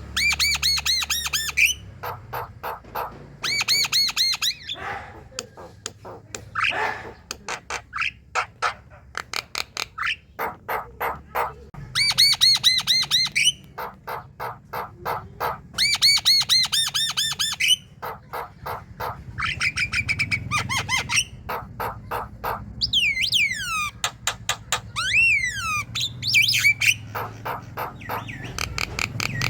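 Javan myna singing loudly: fast runs of short, harsh chattering notes and squawks, broken by a few sweeping whistled glides past the middle.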